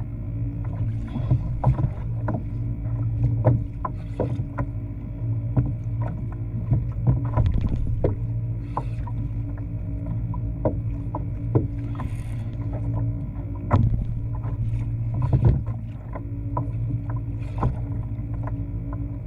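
Sounds from a kayak on the water: a steady low hum under irregular knocks and splashes against the hull.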